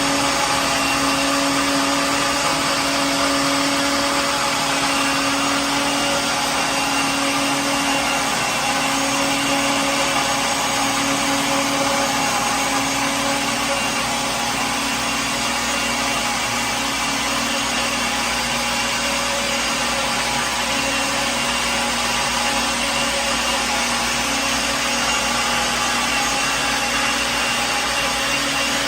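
Electric kitchen blender running continuously at a steady speed, a loud even motor whine with a constant hum.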